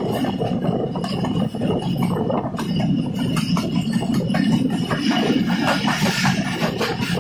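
Passenger train coach running along the track, heard from an open window: a steady rumble of wheels on rails with constant rapid clanks and rattles, and a thin steady high whine over it.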